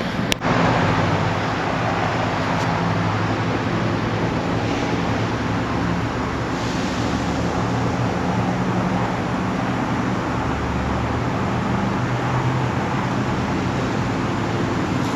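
A 1966 Ford F-250's engine runs steadily as a low hum under a constant rushing noise, heard from inside the cab. A single sharp click comes just after the start.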